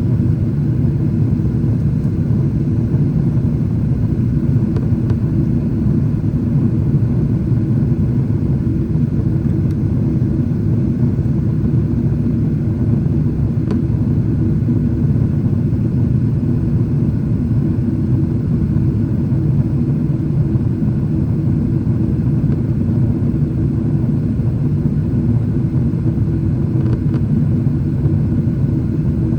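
Steady low rumble of a Boeing 777-300ER's GE90 jet engines and airflow heard inside the cabin, with a constant hum and no change in level.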